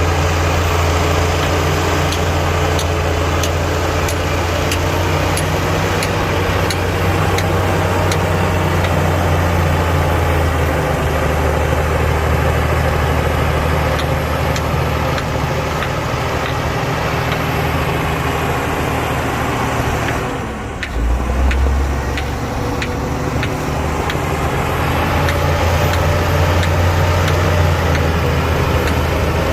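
Heavy diesel earthmoving machine running steadily with a deep engine note and light repeated clicks and clanks. The engine drops off briefly about two-thirds of the way through, then picks up again.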